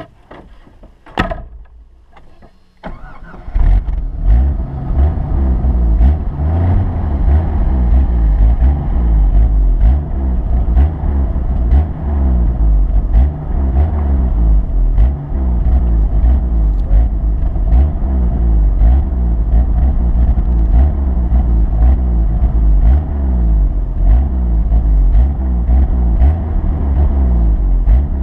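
A vehicle engine starts a few seconds in, after a couple of knocks, then runs loudly with a deep rumble, its revs rising and falling.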